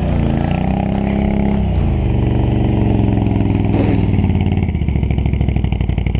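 Can-Am Outlander 650 ATV's V-twin engine revving up and down, then settling to a steady, pulsing idle about five seconds in.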